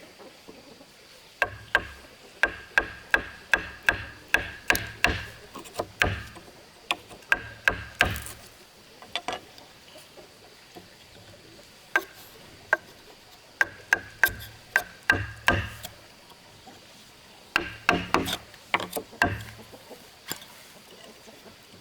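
Hammer blows on wood in quick runs of about two to three strikes a second, each with a short ringing note. There are four runs, with pauses between them.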